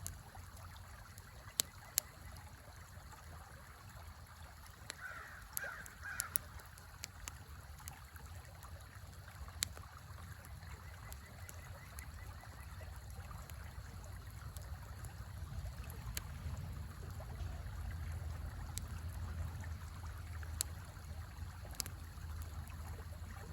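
Wood fire crackling with scattered sharp pops over the steady low rush of a river. A bird calls briefly about five seconds in.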